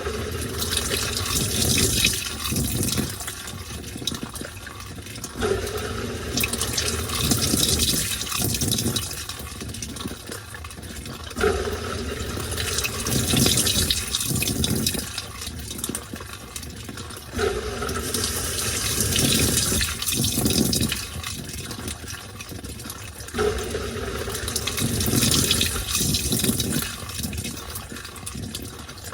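Washing machine agitating a load in water: sloshing and churning in surges that repeat about every six seconds, each beginning with a low thud.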